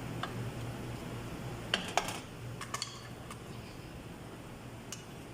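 A spoon clinking and scraping against a cooking pan a few times, the loudest strikes about two seconds in, over a steady low hum.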